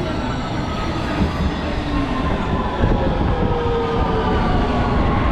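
Passenger train running, loud and steady, with a whine that slowly falls in pitch.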